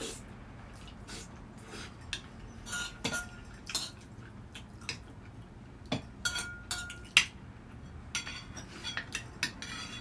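Utensils and dishes clinking and tapping at a meal: scattered light clicks, two of which ring on briefly like struck glass or ceramic, about three seconds in and again about six seconds in.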